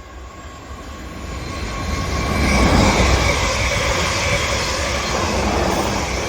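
Two coupled Class 444 electric multiple units passing through the station without stopping: the rush of the train grows loud over the first two and a half seconds, then holds steady as the carriages go by, with a faint steady whine.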